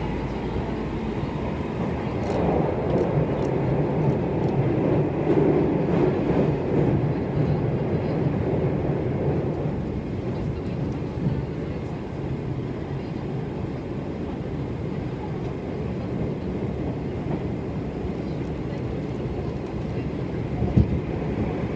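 Meitetsu electric train running at speed, heard from inside the passenger car: a steady rumble of wheels on rail and running gear. It grows louder about two seconds in and eases off after about ten seconds. One sharp click comes near the end.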